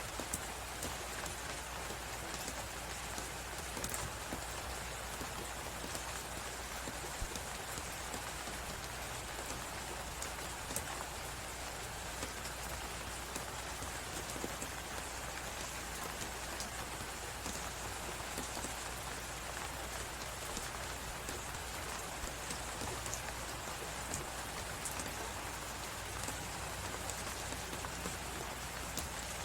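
Fireplace crackling, with frequent small sharp pops, over a steady hiss of wind and snowstorm.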